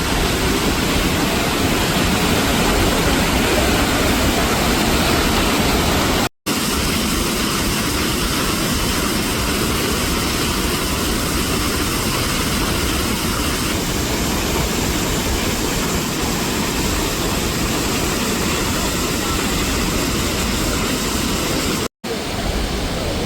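Steady roar of the Iguaçu Falls: a loud, even rush of falling water. It is broken by two split-second cuts, about six seconds in and near the end.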